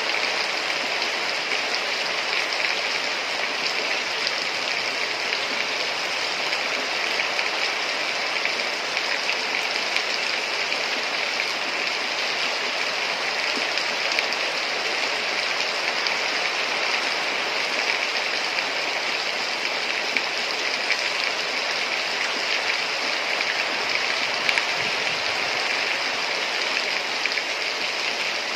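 Heavy rain falling steadily: a dense, even hiss of water with no let-up.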